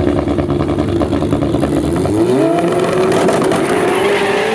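Turbocharged BMW E30 with an M5 E34 engine, its engine running loudly with a fast pulsing beat, then rising steadily in pitch from about halfway through as it accelerates.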